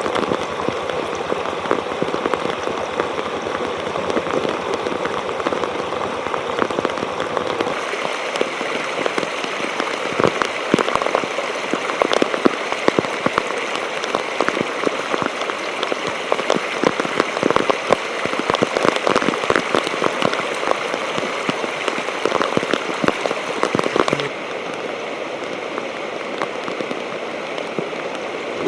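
Heavy rain falling, with many drops hitting close to the microphone as sharp ticks, heard from inside a waterproof camera case. The sound shifts abruptly about 8 seconds and 24 seconds in.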